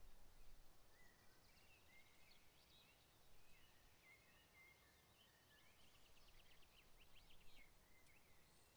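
Faint birdsong from a small songbird: a long, varied run of high whistles and rapid trills that starts about a second in and carries on almost to the end.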